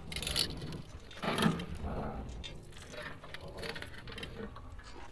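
Sound effect of hand tools working on metal clockwork parts: a run of mechanical clicks and rattles, loudest in the first two seconds, then fainter.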